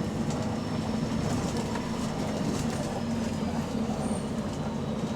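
Volvo B9TL double-decker bus running in service, heard from on board: a steady engine drone with scattered rattles and a faint high whistle. The bus has an exhaust leak.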